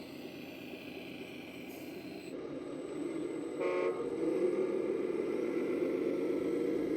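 Simulated diesel engine sound from an RC model truck or tractor's sound module running steadily, with a short horn toot about three and a half seconds in. The engine sound is a little louder after the toot.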